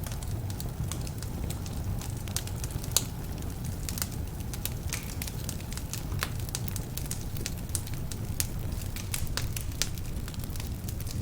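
Wood fire burning in a fireplace, with many sharp, irregular crackles and pops over a steady low rumble of the flames; the strongest pop is about three seconds in. Some of the logs are damp, which adds to the crackling.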